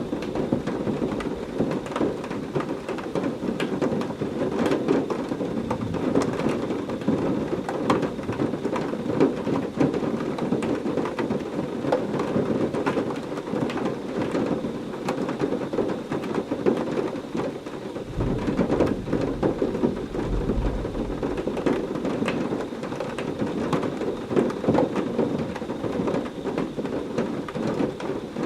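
Heavy rain falling steadily, with a dense patter of individual drops. A low rumble of thunder rolls in about two-thirds of the way through.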